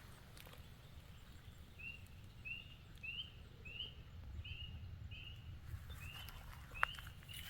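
A bird repeating the same short, high chirp about every two-thirds of a second, starting about two seconds in, over a faint low rumble, with one sharp click near the end.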